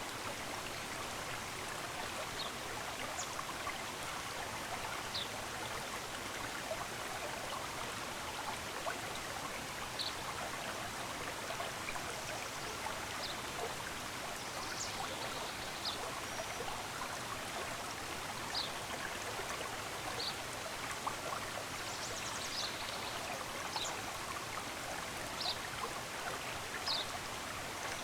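Steady rush of running water, with short high bird chirps scattered every second or two.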